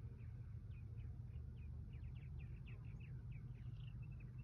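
Small birds chirping: a quick, uneven run of short chirps that drop in pitch, several a second, over a low steady rumble.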